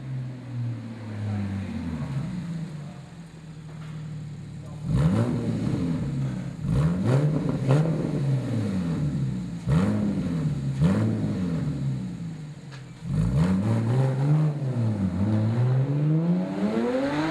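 Porsche Boxster Spyder 3.4-litre flat-six through a Fabspeed Supercup race exhaust, running low and steady at first, then blipped repeatedly in quick rise-and-fall revs. Near the end the revs climb steeply in one long pull.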